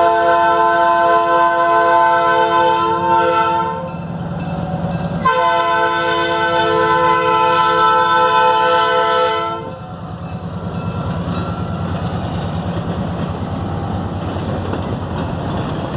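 Diesel switcher locomotive's multi-note air horn sounding two long blasts, the first ending about four seconds in and the second running from about five to ten seconds in. After that the locomotive's engine runs steadily as the train rolls past.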